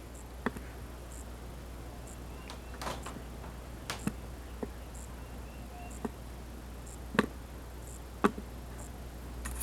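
A low steady hum with faint, scattered clicks and taps, about eight in all at irregular intervals.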